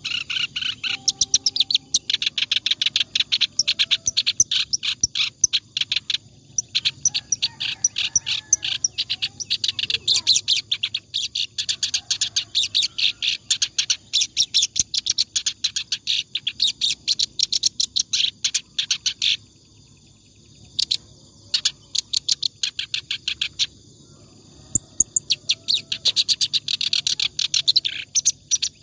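Kerak basi (reed warbler) singing non-stop: a fast, dense stream of short, high chattering notes. The song pauses briefly twice in the second half.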